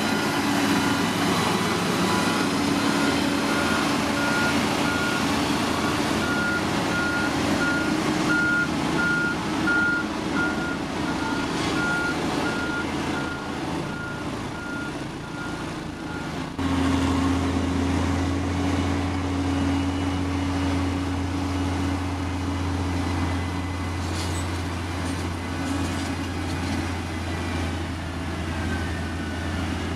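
Heavy construction machine diesel engine running with its reversing alarm beeping steadily. About sixteen seconds in, the beeping stops abruptly and a steady, lower engine drone takes over.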